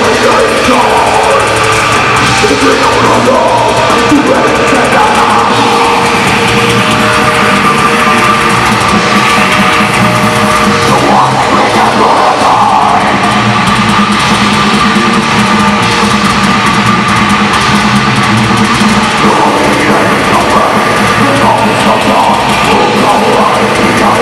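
Heavy metal band playing live: a steady loud wall of electric guitars and drum kit.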